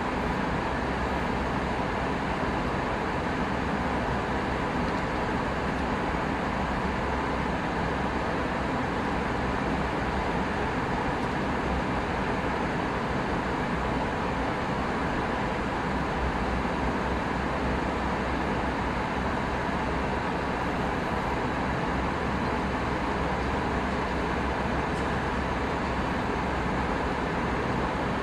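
Steady cabin noise inside an Airbus A319 in flight: the even rush of airflow and the drone of the jet engines, unchanging throughout.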